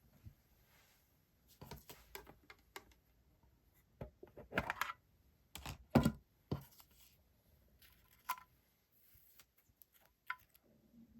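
Paper and sticker packaging being handled: rustling, crinkling and light taps in short bursts, loudest about four to six seconds in.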